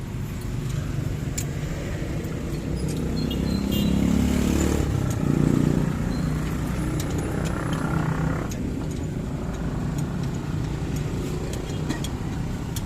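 A motor vehicle engine running with a steady low hum that swells louder about four to six seconds in and then eases back, with a few light clicks over it.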